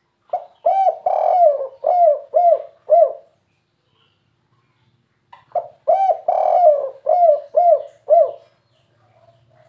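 Spotted dove cooing: two phrases, each of six or seven low coo notes with a longer drawn note near the start, separated by a pause of about two seconds. This is the song type hobbyists call 'kuk 3'.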